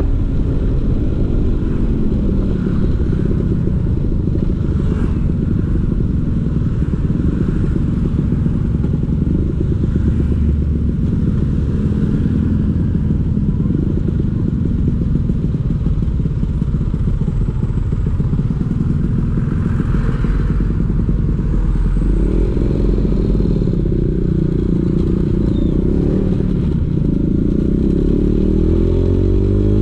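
Vespa PX 150's single-cylinder two-stroke engine running through a DRC Victory racing exhaust. Its pitch rises and falls with the throttle, climbing several times over the last few seconds.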